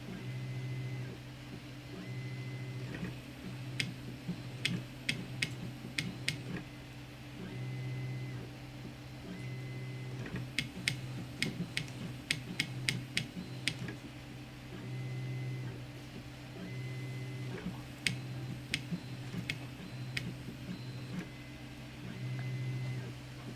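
Zonestar P802M 3D printer printing: its stepper motors hum in short runs that change pitch every second or so as the print head moves back and forth. Clusters of sharp ticks come in between.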